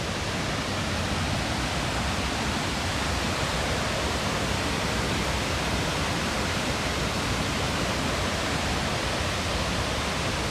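Panther Creek Falls pouring: a steady, even rush of falling water with no change in level.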